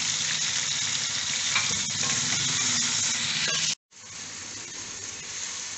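Beef pieces frying in oil with ginger-garlic paste and freshly added ground spices, sizzling steadily in an aluminium pot while stirred with a silicone spatula, with a few faint scrapes. The sound cuts out abruptly just under four seconds in and comes back as a quieter sizzle, with water now added so the spices don't burn.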